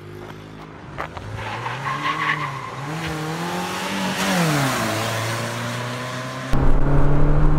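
Motor vehicle engine accelerating and easing off in a chase, its pitch rising and falling several times. A loud low rumble comes in suddenly about six and a half seconds in.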